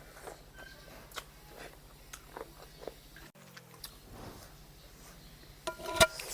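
Mouth sounds of someone chewing and eating pork curry: small wet clicks and smacks, over a faint steady hum. Near the end comes a single sharp clink with a short ring, the loudest sound.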